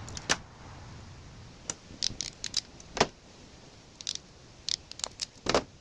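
Sharp, irregular metallic clicks and clinks of hand tools and wiring hardware, the loudest about three seconds in, as a larger ring terminal is crimped onto a battery cable.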